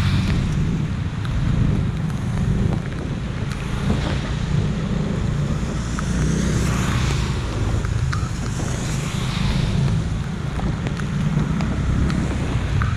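Road traffic in the rain: a steady low rumble with tyre hiss that swells several times as vehicles pass.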